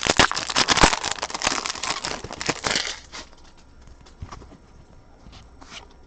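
Trading card pack wrapper being torn open and crinkled in the hands, a dense crackling for about three seconds, then a few light clicks as the cards are handled.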